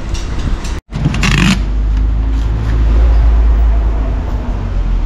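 A short scraping noise about a second in, then the steady low rumble of a running motor vehicle.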